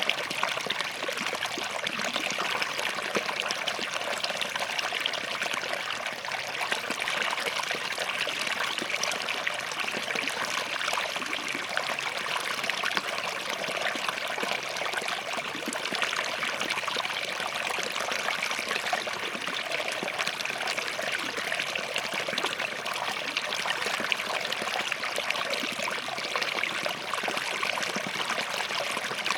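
Small forest stream flowing steadily over and between rocks, a continuous trickling and babbling of water.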